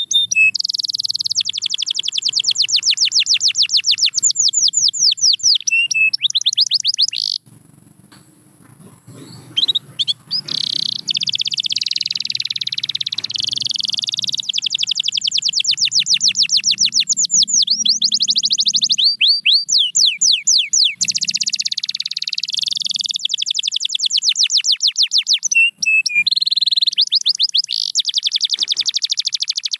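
Domestic canary singing long, rapid trills of repeated sweeping notes, with a break of about two seconds roughly seven seconds in before the song picks up again.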